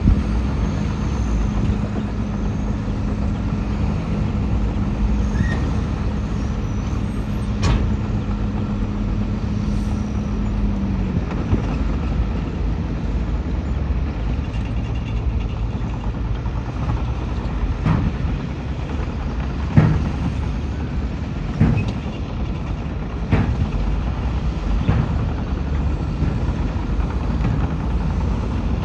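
Heavy diesel earthmoving machinery running: a bulldozer and dump trucks working soil. A steady engine tone drops away about eleven seconds in, and sharp metallic clanks come now and then, most of them in the second half.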